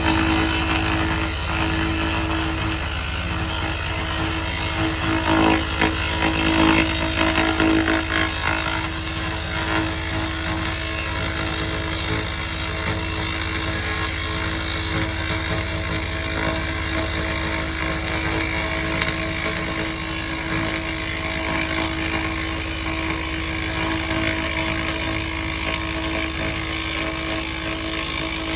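SFX 2000 W handheld fiber laser rust remover running continuously, a steady buzzing hum with a constant tone over a hiss of noise, slightly louder for a few moments about five to seven seconds in.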